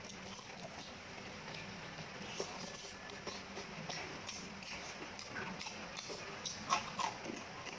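Close-miked chewing of a mouthful of rice and beef curry: irregular wet mouth clicks and lip smacks, with two louder smacks near the end.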